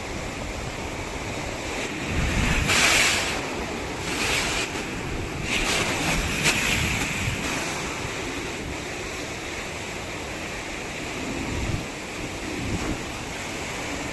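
Ocean surf washing onto a sandy beach, in swells, the loudest about two to three seconds in and more around five to seven seconds in. Wind buffets the microphone with a low rumble.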